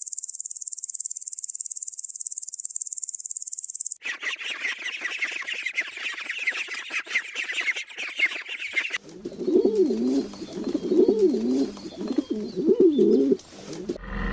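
Animal calls one after another: a high, rapid insect trill, then small birds chirping busily about four seconds in, then three loud, low wavering calls, cooing in character, in the last few seconds.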